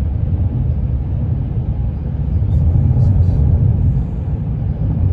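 Car driving on the road: a loud, steady low rumble of road and engine noise.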